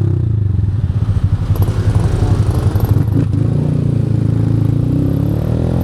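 A 160 cc single-cylinder motorcycle engine with a Fortuna Trioval aftermarket exhaust running hard under way, pulsing strongly through the first half and settling into a steadier note later.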